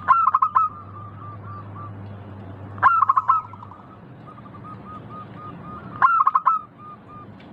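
Zebra dove (perkutut) cooing: three loud phrases of quick notes, about three seconds apart, each followed by a string of softer, evenly spaced coos.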